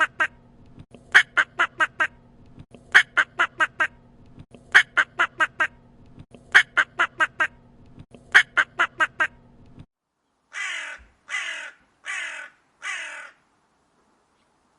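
Recorded bird calls, two birds in turn. First come quick runs of four or five calls repeated about every two seconds over a low hum. After a cut, four separate harsher calls follow, each sliding down in pitch.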